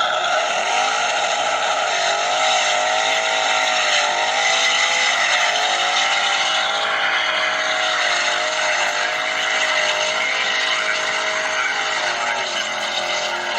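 Car engine running at steady high revs, its pitch wavering gently up and down.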